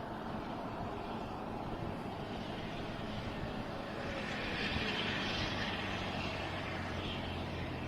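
Diesel multiple unit's engines running, a steady drone that grows louder about halfway through with a rising hiss, then eases slightly.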